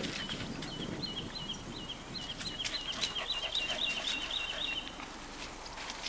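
A bird singing a long series of short, high, repeated notes that speeds up from a few notes a second into a fast run, then stops about five seconds in.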